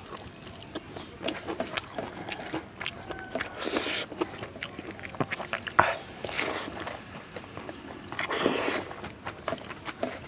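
Close-miked eating of rice and curries by hand: wet chewing and lip smacks with many small clicks, and two longer hissing sounds about four and eight and a half seconds in.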